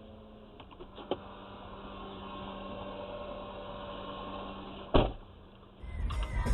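Low steady hum with a few faint clicks, then one short, sharp, loud knock about five seconds in. Music starts just before the end.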